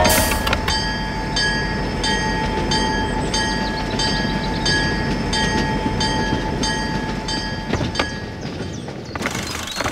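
A train passing a level crossing: a steady rumble under a steady tone, with a ringing that repeats about twice a second. The sound stops shortly before the end.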